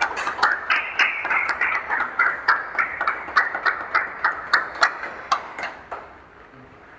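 A small group clapping in steady rhythm, about four claps a second, with cheering voices. It fades away about five to six seconds in.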